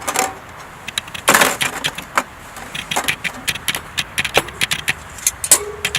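Small sticks of split firewood being handled: irregular sharp clicks and knocks of wood on wood, with a louder scraping rustle about a second and a half in.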